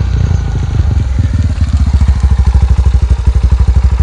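Yamaha Serow 225's single-cylinder four-stroke engine running at low speed as the bike rides up close, with a rapid, even exhaust beat that grows louder about a second and a half in.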